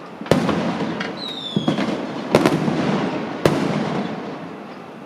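Fireworks going off: four sharp bangs, the second one smaller, each trailing off in a rumbling echo. A short whistle sounds about a second in. The bangs fade out near the end.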